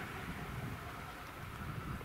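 Leo Express Stadler FLIRT electric train running away through a tunnel, a low rumble fading slowly, with some wind on the microphone.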